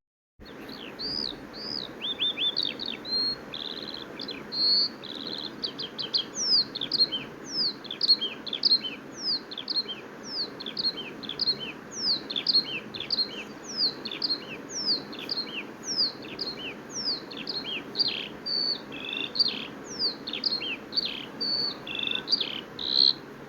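A lark singing a long, unbroken song of quick, high notes: sharp downslurred whistles strung together with short buzzy trills, over a steady background hiss.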